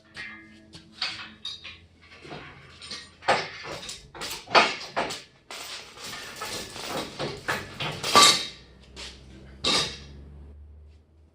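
Irregular metallic clanking and rattling: metal parts or tools being handled and knocked together, with a few louder clanks about four and eight seconds in.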